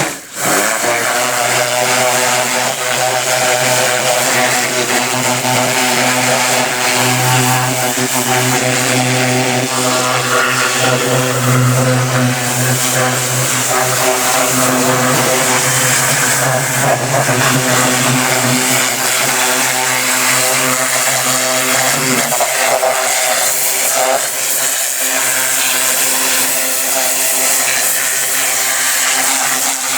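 Pressure washer running steadily: the pump motor hums while the water jet hisses as it sprays the engine bay. The hum drops a little past the middle.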